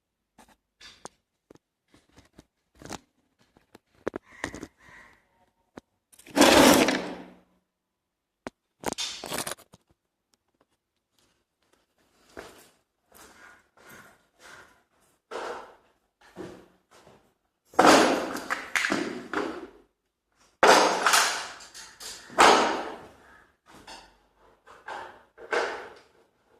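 Irregular knocks and thunks with a few longer, louder bursts of clattering.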